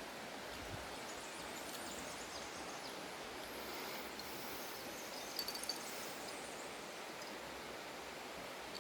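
Steady outdoor ambient hiss, with a few faint high chirps and small clicks a little over five seconds in.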